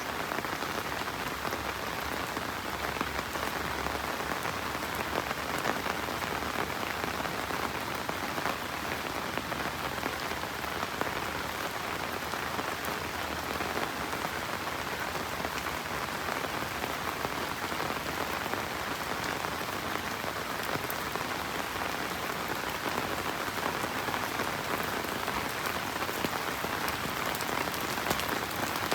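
Steady rain falling and pattering on surfaces, a dense even hiss of many small drops.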